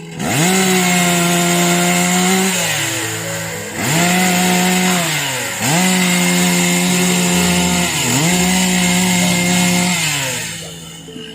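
Two-stroke chainsaw engine revved up to full throttle about four times, holding a high steady pitch for a second or two each time and dropping back toward idle in between.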